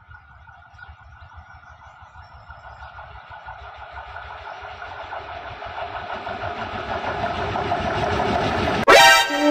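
An electric locomotive hauling a passenger train approaches, its rumble and rhythmic wheel clatter growing steadily louder. A sudden loud horn-like blast cuts in near the end.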